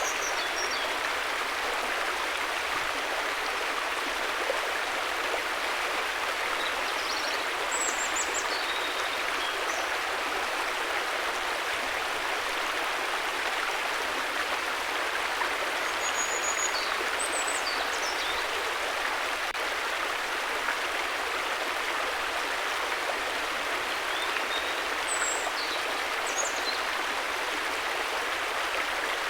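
River water flowing in a steady, even rush, with faint short high chirps a few times over it.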